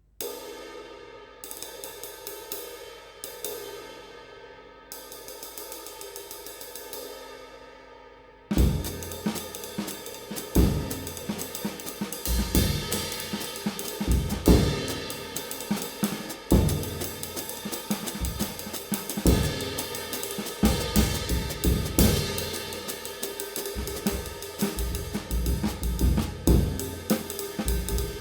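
20-inch Kamin V-Klasse Extra Light B20 bronze ride cymbal struck four times on its own, each stroke left to ring out with a long wash. Then, about eight seconds in, it is played in a steady groove over a drum kit with bass drum and snare.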